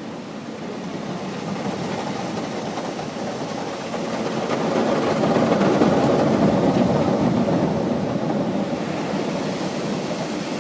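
Automatic car wash working over the car, heard from inside the cabin: spinning brushes and water spray beating on the body make a steady rushing rumble. It swells to its loudest around the middle and then eases off a little.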